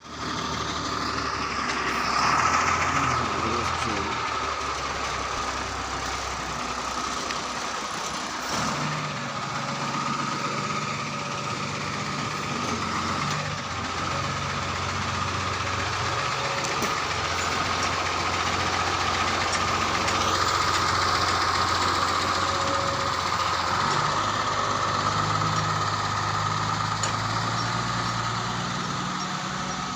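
Tata LPT 3118 cargo truck's diesel engine running steadily, its note shifting a couple of times.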